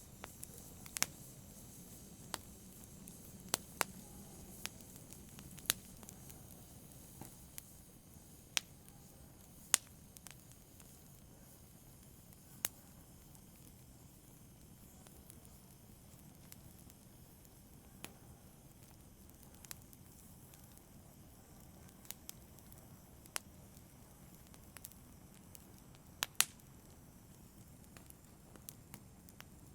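Campfire burning: a low steady hiss with sharp, irregular crackles and pops from the burning wood, every second or two.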